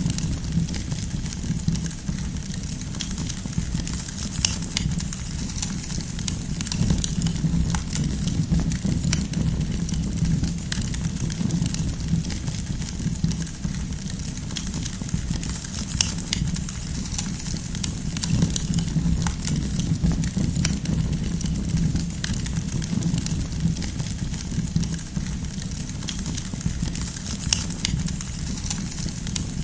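Campfire burning with a steady low rumble and frequent small crackles and pops of burning firewood.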